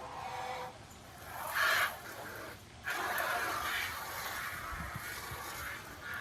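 Domestic fowl calling in a backyard pen: a few short calls, then a longer run of calling over the last half.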